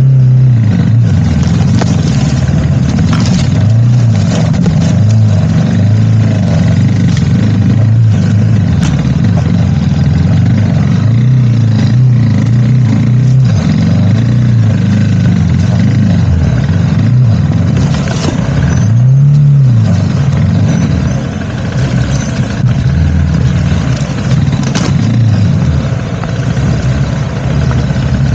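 Motorcycle engine pulling under load while riding, its revs rising and falling every couple of seconds, over a steady rushing noise.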